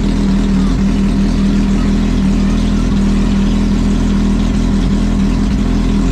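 Kawasaki Z800's inline-four engine idling steadily just after a cold start, the bike having stood unused for about ten days.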